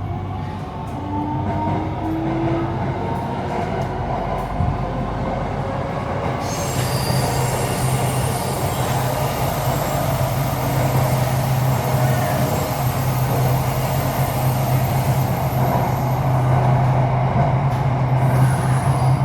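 Metro train running, heard inside the carriage. A rising electric whine sounds in the first few seconds as it accelerates. It then settles into a steady rolling hum, with a brighter wheel-on-rail hiss joining about six seconds in.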